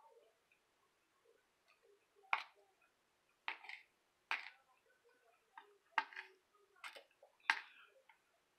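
Mouth noises of someone chewing food: about six short, irregular wet clicks and smacks spaced a second or so apart.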